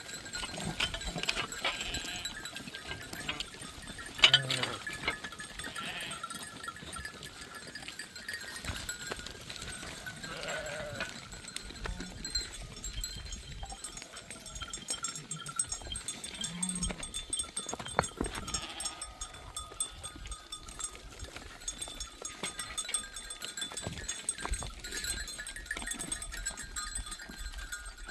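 A flock of sheep and goats: a few scattered bleats amid many small clicks and the clinking of animal bells.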